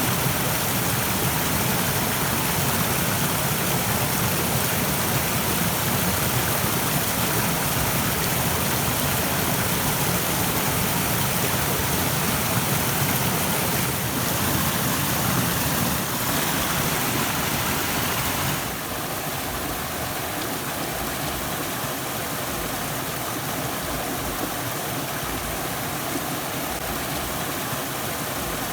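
Rushing stream water, a steady full wash of noise. About two-thirds of the way in it abruptly turns a little quieter and thinner.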